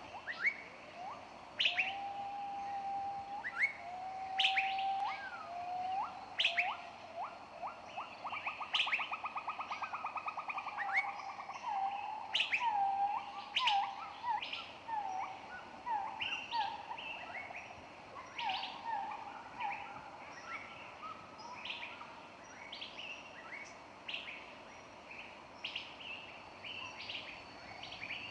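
Several songbirds singing: sharp, quick downward chirps repeat throughout. A lower bird gives long held whistles near the start, a fast trill about nine seconds in, then a run of short repeated notes.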